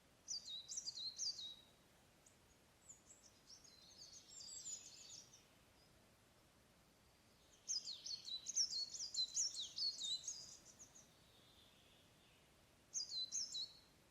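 Songbirds singing in a forest: four bouts of quick, high-pitched twittering song, the longest and loudest from about eight to eleven seconds in, over a faint steady background hush.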